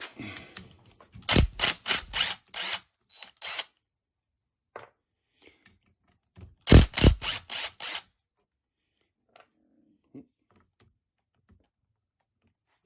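Socket ratchet clicking in two bursts of quick, sharp clicks, about four or five a second, as it works the fasteners on a car's air suspension compressor.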